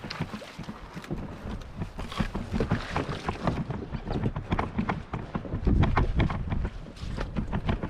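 Wind buffeting the microphone in a low rumble, strongest about six seconds in, with many irregular knocks and taps over it.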